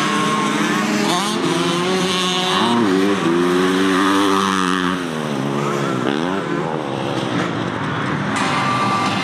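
Several motocross bikes racing, their engines revving up and dropping back in overlapping sweeps as they accelerate and shift.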